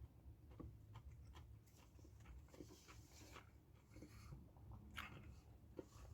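Faint chewing and crunching of Doritos nacho chips, a scatter of small crackles and clicks over a low room hum.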